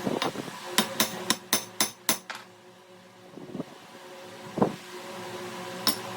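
A quick run of about seven sharp knocks, some four a second, then a few single knocks later, over a steady low machine hum.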